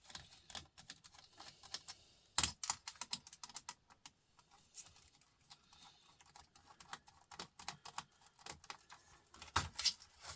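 Irregular small clicks and taps of laptop plastic and small parts being handled and pried apart at the touchpad area, with a sharper click about two and a half seconds in and a denser run of clicks near the end.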